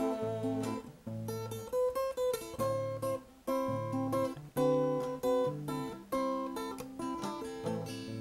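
Solo acoustic guitar playing a bossa nova accompaniment: plucked chords over an alternating bass line, in an instrumental break between sung verses.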